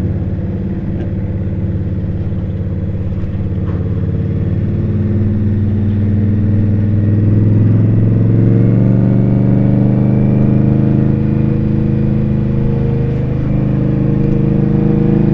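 Indian Scout motorcycle's V-twin engine running under way, its pitch rising as the bike accelerates over a few seconds, then holding steady at speed.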